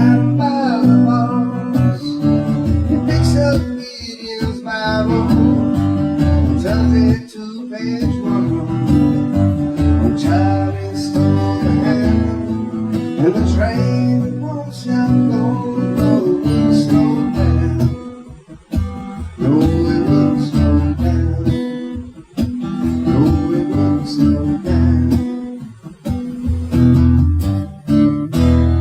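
Live acoustic guitar band playing an instrumental passage: steady strummed chords under a lead melody line that bends and glides in pitch.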